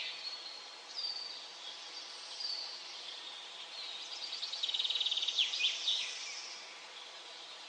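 Small songbirds singing in woodland: short high calls about a second in and again near two and a half seconds, then a rapid, rattling trill of high notes from about four to six seconds, over a faint steady hiss of background noise.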